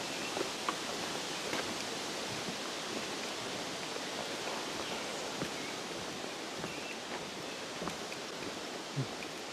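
Steady outdoor background hiss with a few faint, short clicks and taps scattered through it.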